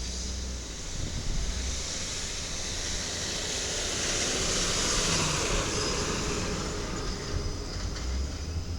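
Side-loader garbage truck running, its engine rumbling under a broad hiss that swells to a peak midway and then eases off.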